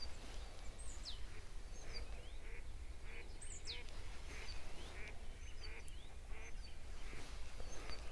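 Birds calling across a lake: several sharp whistles that slide down in pitch and scattered short chirps, with a run of short rasping notes repeating about twice a second, over a low steady rumble.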